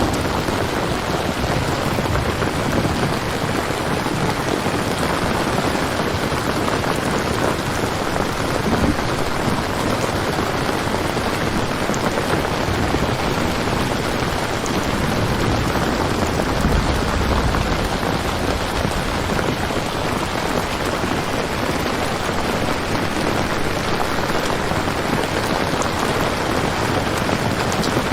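Steady rain falling, an even hiss of drops, with a brief low rumble about two-thirds of the way through.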